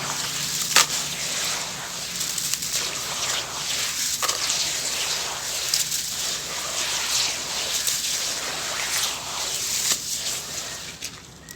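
Grainy sand-cement chunks crumbling in water: a steady crackling hiss with frequent sharp little clicks. It fades somewhat near the end.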